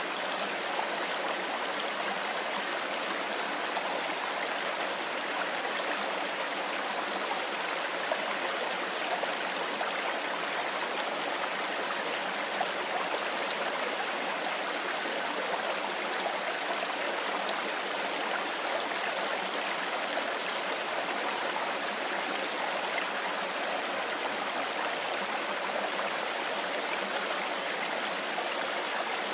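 Mountain river flowing over stones: a steady rushing and babbling of water.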